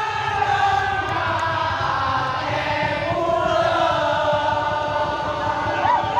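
Crowd of many voices chanting together, with long overlapping held notes.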